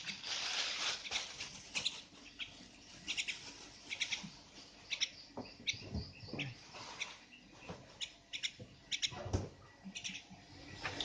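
Javan myna giving many short, sharp chirps in irregular runs, with a few soft thumps mixed in.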